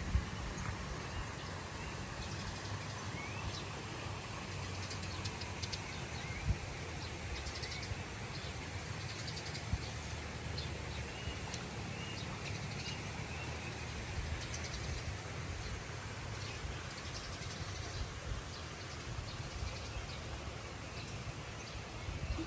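Outdoor nature ambience with birds chirping and trilling here and there over a steady low rumble. There are a few soft thumps, about six and ten seconds in.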